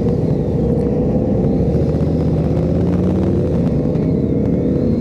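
Harley-Davidson Road Glide's V-twin engine running steadily under way, its note climbing slightly about halfway through.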